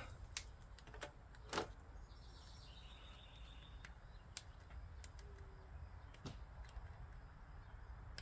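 Quiet background hum with a few faint clicks and taps, and a faint high chirping from about two to four seconds in.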